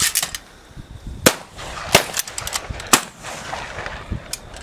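Shotgun shots at clay targets: a quick cluster of cracks at the start, then three loud shots about a second apart, and a fainter crack near the end.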